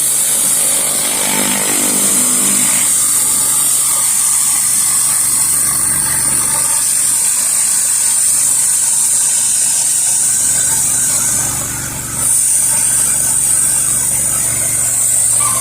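Pressure washer running with a 16-inch Whisper Wash surface cleaner spraying concrete: a steady high hiss of water jets over the engine's hum, dipping briefly about three-quarters of the way through.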